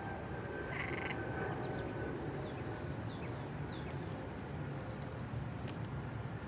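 A few short, quick chirps from a bird, each falling in pitch, between about two and a half and four seconds in, over a steady low background rumble.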